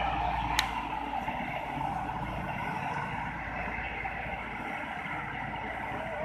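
Tractor diesel engine running steadily, with one sharp click about half a second in.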